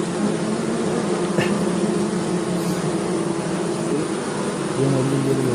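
Stingless bees buzzing in a steady, continuous hum, with a deeper tone joining near the end.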